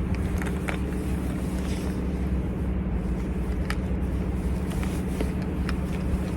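Steady low engine drone with a few light clicks and knocks of camp gear being handled.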